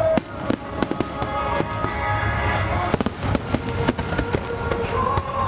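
Fireworks shells bursting in a rapid string of sharp cracks and bangs, thickest about three seconds in, over a song with a female singer playing throughout.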